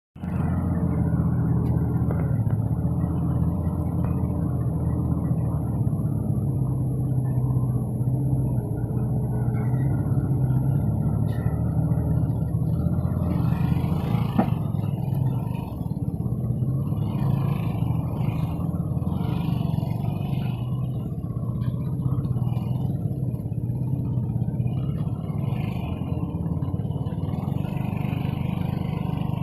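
Six-wheel dump truck's engine running steadily, with irregular noisier patches over it in the second half.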